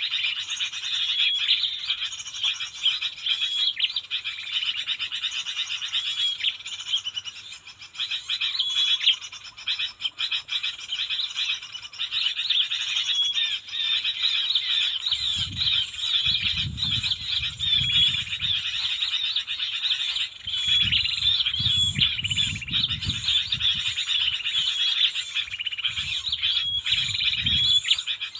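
Dense, steady outdoor chorus of high chirping and trilling calls, small birds among them. Low rumbling bursts start about halfway in and recur to the end.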